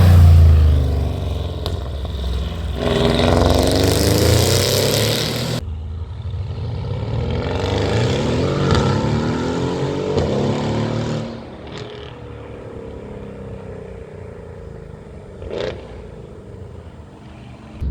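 Tuned twin-turbo V8 of a modified Mercedes CLS63 S AMG with a full aftermarket exhaust, running hard under acceleration. Its pitch sweeps up and down for about the first eleven seconds, then it falls back to a quieter steady running, with one brief sharp sound about fifteen seconds in.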